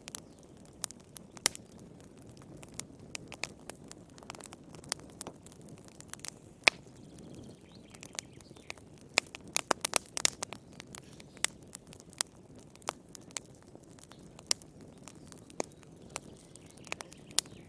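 Campfire crackling: irregular sharp pops and snaps over a low, steady rush of burning, with a quick flurry of pops about nine to ten seconds in.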